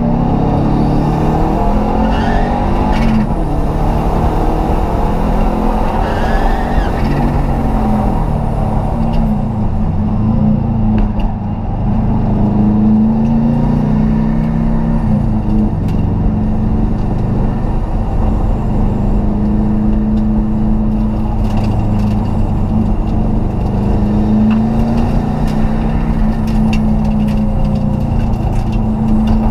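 Race car engine heard from inside its stripped cabin, revs rising and falling as it accelerates and lifts, with a short drop in loudness about eleven seconds in, then running at steadier high revs.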